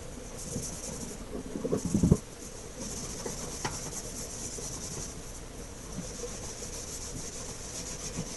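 Back-and-forth rubbing strokes on a wooden surface, with a couple of low knocks about two seconds in.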